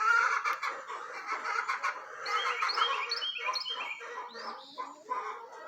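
Backyard hens calling among themselves: soft chirps and short calls, with a run of quick high falling notes from about two seconds in.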